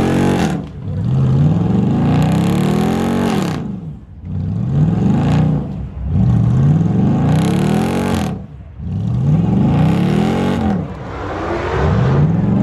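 A car engine revved over and over, about every two seconds, each rev climbing in pitch and then dropping back to idle.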